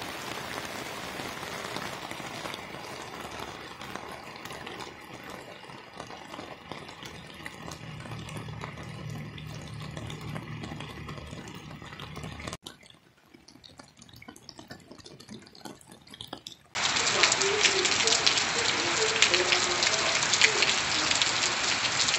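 Rain falling steadily, an even hiss of rainfall. It drops away abruptly about halfway through to a much quieter stretch. Then, a few seconds from the end, heavier rain comes in much louder, pattering densely on a wall and a wet street.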